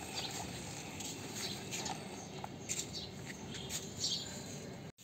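Scattered faint high chirps, like small birds, over a steady outdoor background hiss; the sound drops out for an instant near the end.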